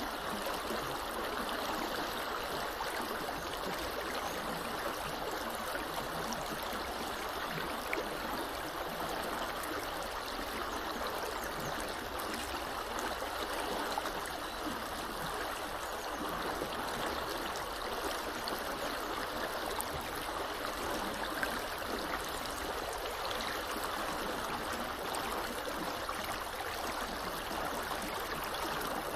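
Small river or creek flowing steadily, an even rushing of water over the stream bed.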